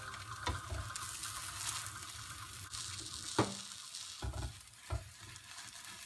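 Bánh xèo (Vietnamese sizzling crepe) frying in a pan with a steady sizzle. A few knocks and scrapes of a spatula against the pan come as the crepe is folded over, the sharpest about three and a half seconds in.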